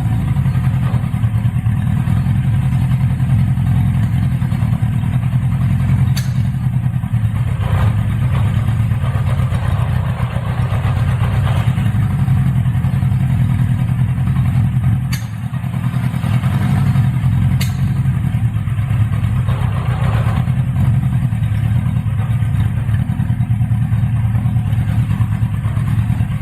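Honda CB550F's air-cooled inline four-cylinder engine running steadily at low revs, revived after restoration, with a brief dip in level about fifteen seconds in.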